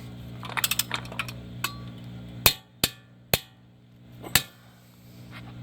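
Hand tools and sockets clinking and knocking against metal, with several small clicks and then four separate sharp knocks, as a socket adapter is handled and fitted. A steady hum runs underneath and stops about halfway through.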